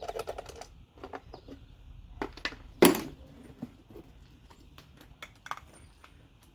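Metal clinks and knocks of parts and tools being handled on a small lawn mower engine, with a quick cluster of clicks at the start and one loud clank about three seconds in.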